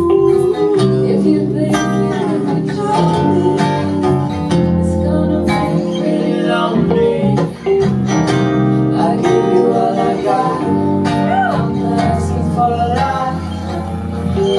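Live music led by guitar, with sustained notes over a steady low bass line and a brief dip about halfway through.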